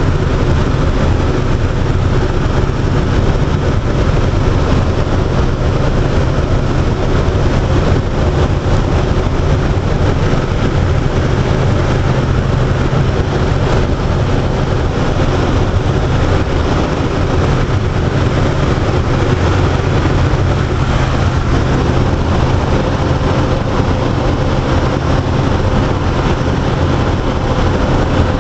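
Air Tractor aircraft's engine and propeller running with a loud, steady, unchanging drone.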